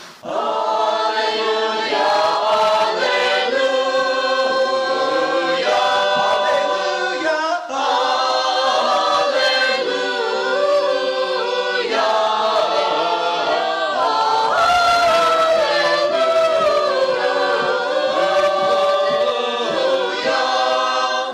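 Church choir singing unaccompanied liturgical chant, many voices in harmony, sustained and steady in loudness.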